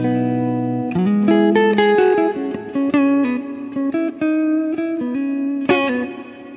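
Electric guitar playing a melodic phrase of single plucked notes through the Poly Effects Poly Verbs reverb pedal. About 5.7 seconds in it strums one chord, which rings out and fades in the reverb tail.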